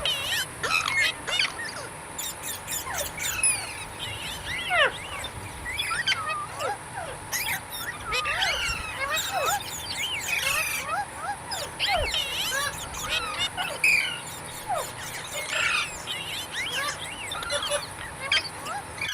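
Parrots chattering: many short, overlapping chirps and squawks that keep up throughout, with a faint steady hiss behind them.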